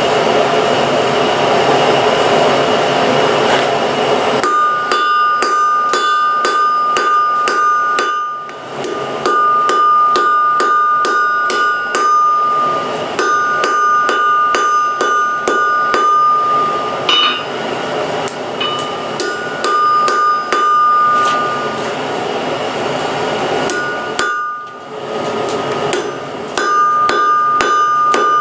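Blacksmith's hammer striking hot spring steel on the anvil in a steady run of blows, the anvil ringing with each, in several bouts broken by short pauses. Before the hammering starts, a few seconds of steady rushing noise.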